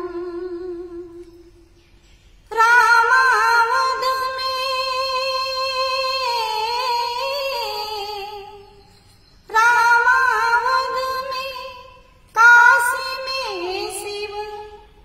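A woman singing without words: long held vowel phrases with vibrato, three phrases separated by short breaths, with no accompaniment heard.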